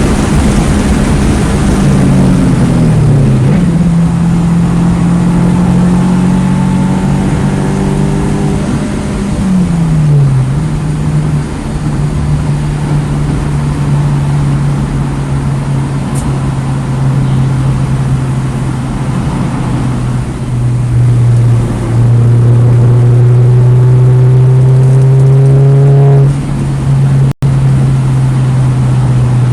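2009 Mini Cooper S's turbocharged 1.6-litre four-cylinder at track pace, heard onboard with road and wind noise. The engine note falls twice in the first ten seconds as the car slows, holds steady, then climbs for several seconds near the end, with a split-second break in the sound just after.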